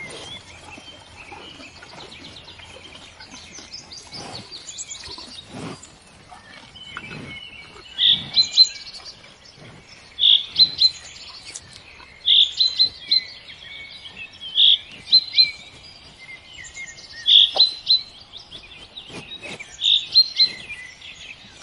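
Birds chirping and singing in a busy background chorus; from about eight seconds in, one bird repeats a short, loud, high phrase about every two seconds, six times.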